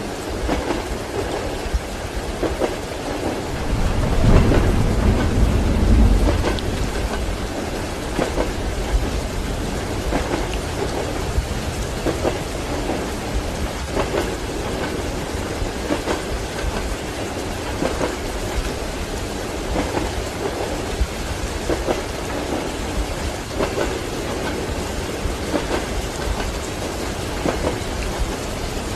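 Steady heavy rain with a low rumble of thunder swelling about four seconds in and fading a couple of seconds later, over the rhythmic clack of train wheels on the rail joints about every two seconds.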